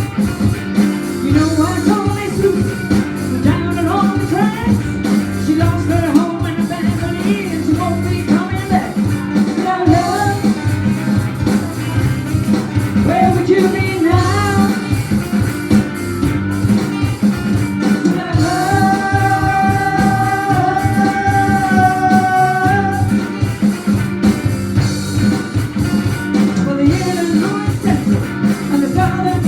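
Live band playing a rock/blues number: guitar, bass and drums under a melodic lead line that slides between notes, with one long held note about two-thirds of the way through.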